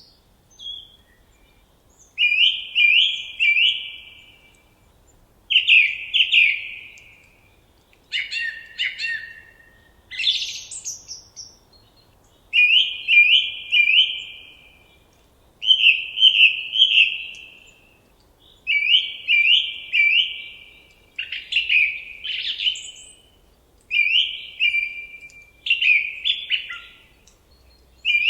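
A songbird singing the same short phrase over and over, each a run of about three quick slurred notes lasting a second or so, repeated about every three seconds, with a few faint higher chirps between phrases.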